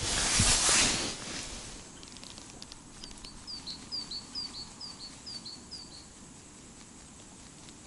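A loud rustle of clothing and handling for the first second or two, then a small bird calls outdoors: a quick run of about ten short, high chirps, each falling in pitch, lasting about three seconds.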